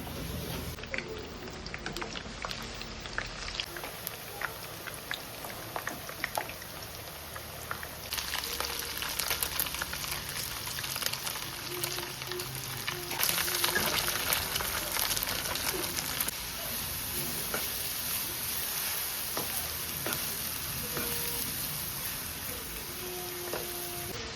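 Food sizzling and crackling as it fries in hot oil. The sizzle grows louder about a third of the way in.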